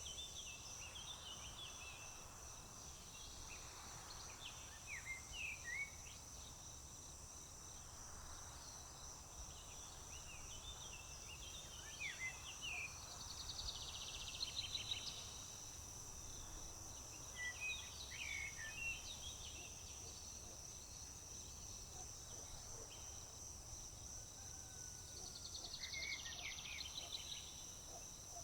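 Crickets trilling steadily and high-pitched, while songbirds sing short chirping phrases every few seconds, twice with a brief buzzy trill. A faint low rumble lies underneath.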